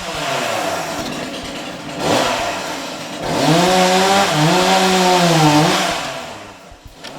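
A small engine revving: a rising rev about two seconds in, then a louder held rev from about three to six seconds in that dips once in pitch and rises again before falling away.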